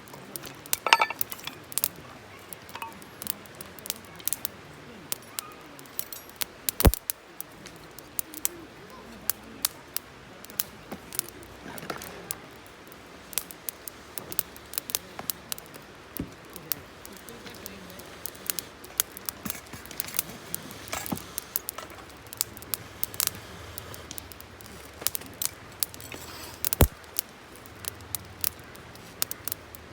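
Wood campfire crackling, with irregular sharp pops and snaps, two of them loud, about seven seconds in and near the end.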